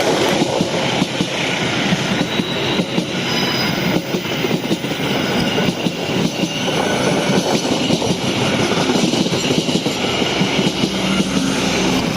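Passenger train rolling past close by: a loud, steady rumble with a rapid clatter of steel wheels over the rails and a brief faint squeal of the wheels about three seconds in.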